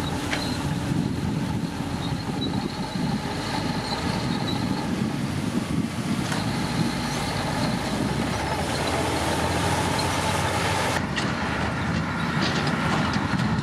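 Komatsu D65P bulldozer's diesel engine running steadily under load, with a thin high whine over the first few seconds.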